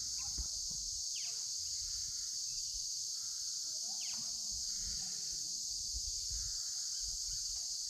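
A steady, high-pitched chorus of insects, with short bird calls about a second in and again about four seconds in.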